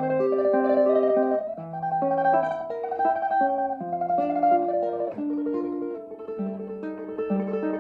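Solo classical guitar playing a slow tremolo melody in the upper voice over plucked bass notes that change every second or so.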